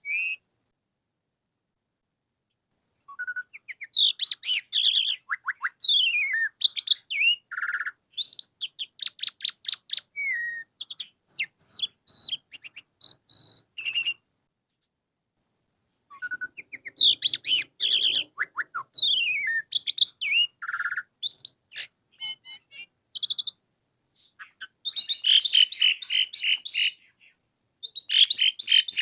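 Asian pied starling singing: a varied song of whistles, gliding notes and rapid trills and chatter, in bursts with pauses of a few seconds, ending in a dense chattering run.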